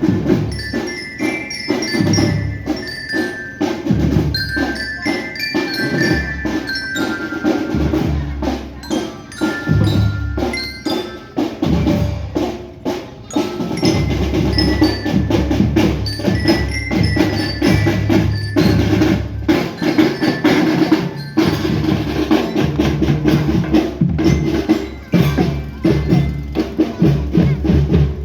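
Marching drum band playing: a glockenspiel-type bell lyra carries a melody over snare and bass drum strokes.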